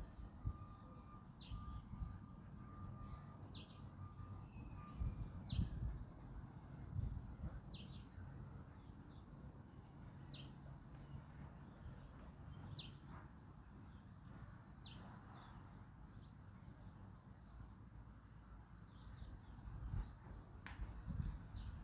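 Songbirds calling faintly: a short falling whistled note repeated about every second and a half, with a run of very high, thin chirps in the middle. A low wind rumble runs underneath.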